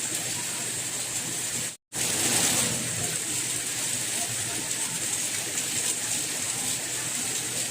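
Steady rain: a dense, even hiss. It cuts out to silence for a split second about two seconds in, then comes back slightly louder.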